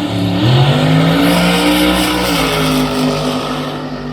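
Drag race car accelerating hard down the strip. Its engine pitch climbs, drops at a gear change about half a second in and again after about two seconds, then holds while the sound eases off as the car pulls away.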